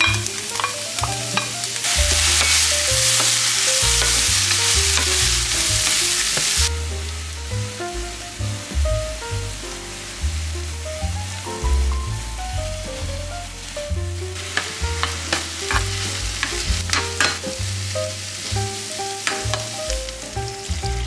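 Diced king oyster mushrooms and minced meat sizzling in a hot frying pan while being stirred. The sizzle is loudest for a few seconds soon after the start, then settles to a softer hiss, with clicks and scrapes of the spatula against the pan in the second half.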